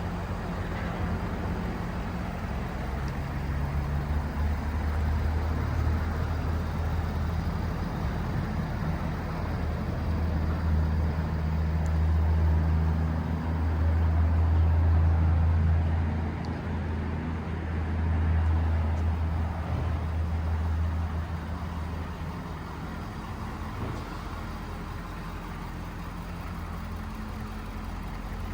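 Ford 6.7L Power Stroke V8 turbo diesel idling steadily, its low hum swelling louder for several seconds in the middle and easing off toward the end.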